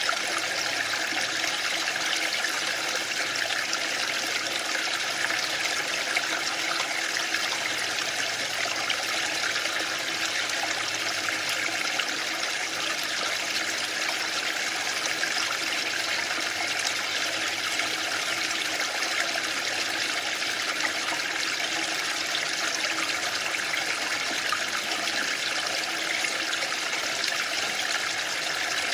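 Waterfall: a steady rush of falling water, an even hiss that never swells or breaks.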